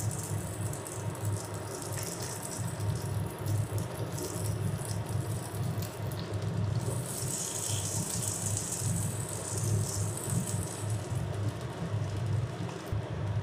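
Hot oil sizzling in a frying pan as steamed momos are laid in one by one, the sizzle growing stronger partway through. A steady low hum runs underneath.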